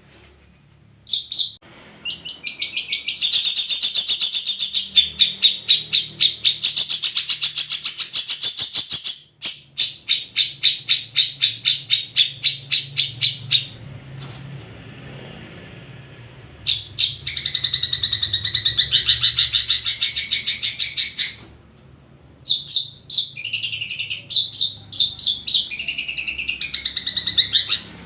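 Long-tailed shrike (cendet) song: long phrases of rapid, high chattering notes at about five a second, broken by short pauses, with a few short calls near the start.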